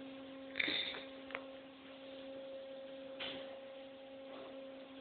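Steady electrical-sounding hum of automatic car wash equipment, heard from inside the car's cabin during the spot-free rinse. Two short hissing bursts come about half a second in and about three seconds in, with a single click between them.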